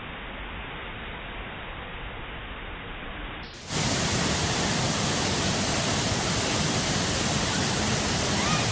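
Steady rush of a waterfall's falling water. A little over three seconds in it turns abruptly louder and brighter.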